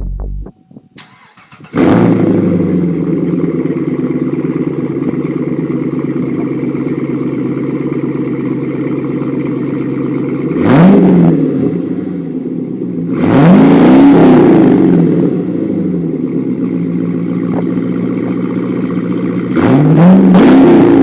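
2010–2011 Chevrolet Camaro 6.2-litre V8 with a Magnaflow Competition Series exhaust starting up about two seconds in and idling steadily. It is then revved three times: a short blip, a longer rev that rises and falls, and a final rev near the end.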